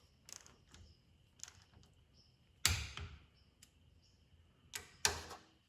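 Head bolt on a Hercules IXA engine being tightened with a ratchet-type torque wrench: a few faint ratchet ticks, then a sharp click about two and a half seconds in and another near the end as the wrench reaches its 25 foot-pound setting.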